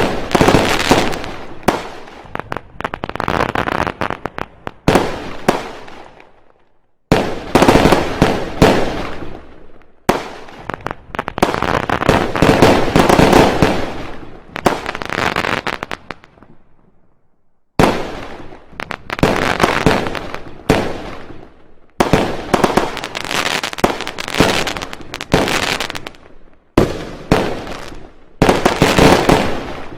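Fireworks going off: dense runs of rapid bangs and crackles, coming in several separate bursts with brief quieter breaks between them.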